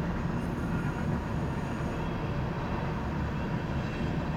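Freight train of covered hopper cars rolling past, a steady low rumble of wheels on the rails.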